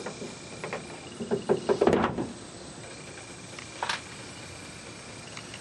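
A few sharp clicks and knocks, with a short cluster of rattling knocks about a second and a half in.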